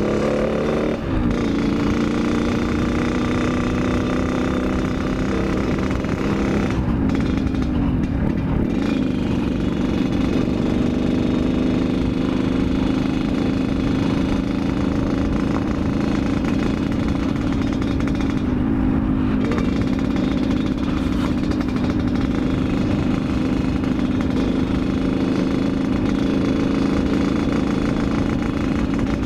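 Yamaha RX-King's two-stroke single-cylinder engine running on the road at speed. Its note drops a few times in the first nine seconds as the throttle comes off or gears change, then holds a steady pitch for the rest.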